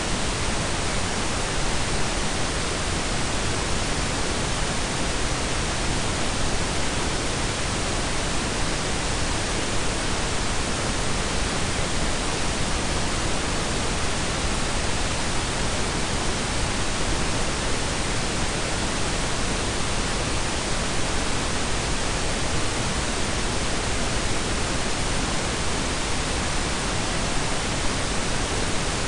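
Steady synthetic pink and brown noise blend: an even, unchanging hiss with a deep rumbling low end.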